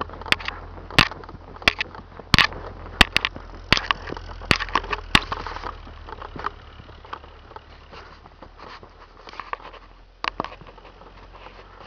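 Snow crunching in sharp, irregular crackles, thick for the first six seconds and thinning out after, over a steady low hum.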